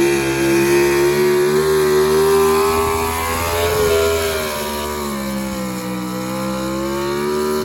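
Pro stock four-wheel-drive pulling truck's engine held at high revs under full load during a pull. Its pitch sags a little about five seconds in and climbs again near the end.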